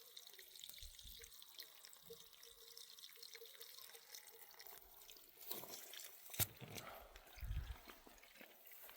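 Faint trickle of irrigation water, with a few soft thumps and one sharp click in the second half.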